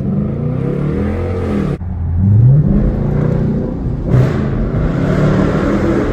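Straight-piped Dodge Charger R/T 5.7 HEMI V8 exhaust, revved up and back down. A sudden break about two seconds in, then another quick rev and a harder, noisier run of the engine.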